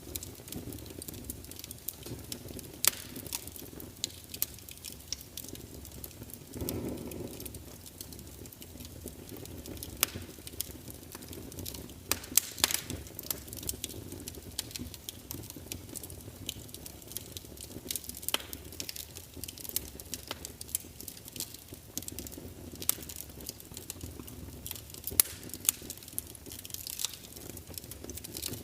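Wood fire burning in a fireplace, crackling with irregular sharp pops over a low steady rush of flame. A brief louder rush comes about seven seconds in.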